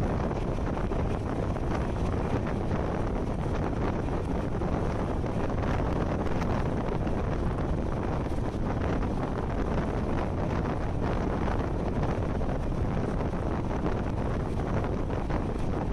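Wind rushing over the microphone through an open train window, over the steady rumble of a passenger train running at speed.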